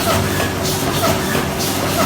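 KOLBUS bindery machine running, a repeating mechanical clatter and thump that comes round about once a second.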